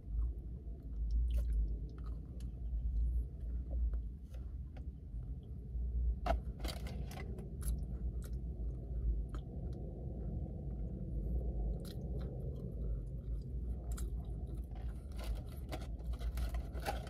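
A person chewing a frosted Pop-Tart toaster pastry, with scattered small crunches and mouth clicks, over a steady low rumble.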